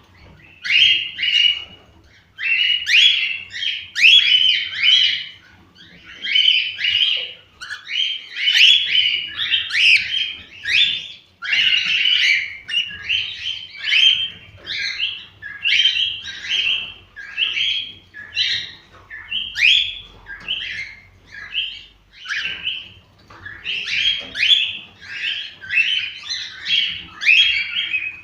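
Cockatiels chirping and warbling in quick, dense phrases, with short pauses every second or two.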